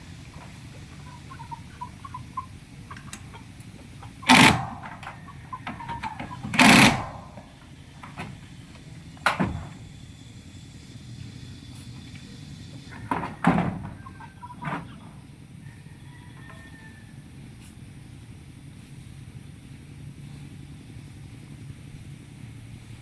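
Loud knocks and bangs from work on a satellite dish antenna, about six of them at irregular intervals, two of them close together, then a quiet stretch with only a steady low background.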